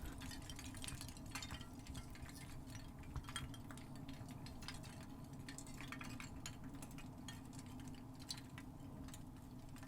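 Faint, steady rush of a partly frozen river, with many small scattered tinkling clicks of ice.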